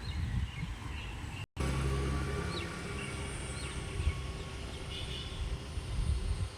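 Small birds chirping in short, scattered high calls over a steady low rumble. The sound cuts out for an instant about a second and a half in.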